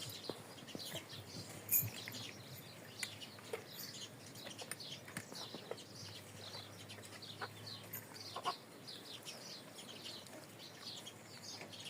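Parrot chirping over and over in short, high, falling chirps, with a couple of sharp clicks or taps about two seconds in and again near the end.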